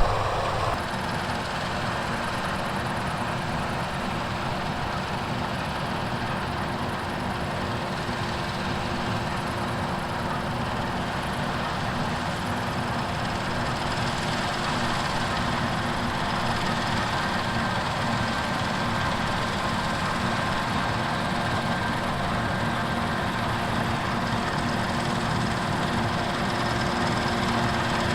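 Heavy harvest machinery running steadily: a constant engine and machine drone with a few steady whining tones through it.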